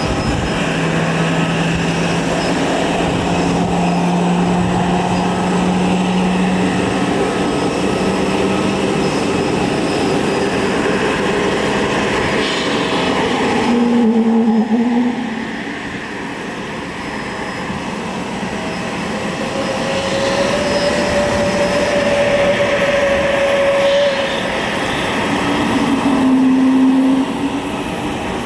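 Jet airliner noise as an Airbus A350-900 lands, a steady loud rush with a few held engine tones that shift in pitch. It drops briefly about halfway through and again near the end.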